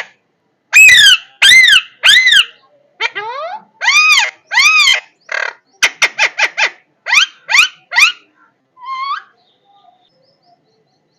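A parrot calling loudly: a string of arching, rise-and-fall squawks about half a second apart, then a quick run of short rising chirps at about four a second and one lower call, before it falls quiet near the end.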